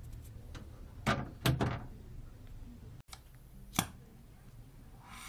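Four sharp knocks or taps: three close together about a second in and one more near four seconds, over a faint low hum.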